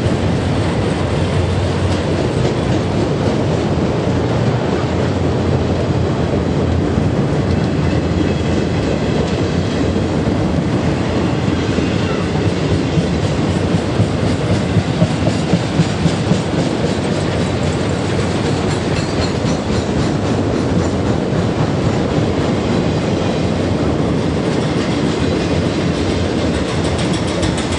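Train rolling past close by: a steady rumble of cars with wheels clacking over rail joints, with a run of louder clacks about halfway through.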